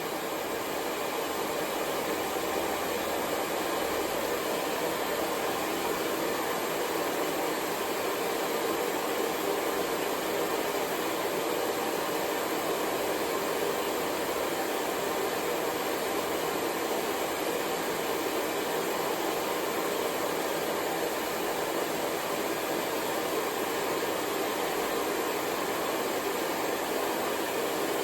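Hair dryer blowing continuously, a steady, even whoosh of air with a fan hum, unchanging throughout.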